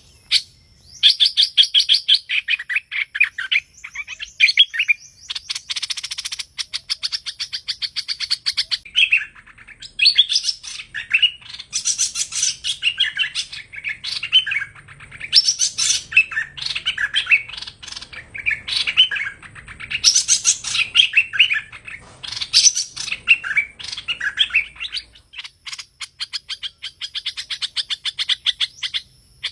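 Song of the bird known in Vietnamese as hoành hoạch: fast chattering trills of many quick notes, in phrases a few seconds long separated by short pauses.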